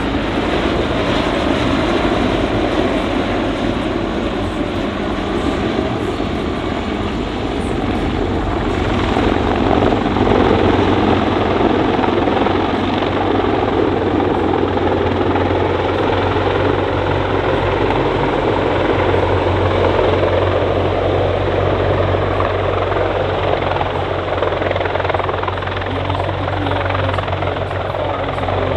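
US Navy MH-53E Sea Dragon heavy helicopter in flight: its main rotor and three General Electric T64 turboshaft engines make a continuous, loud rotor and turbine noise with a steady low hum. The noise grows slightly louder about ten seconds in as the helicopter manoeuvres.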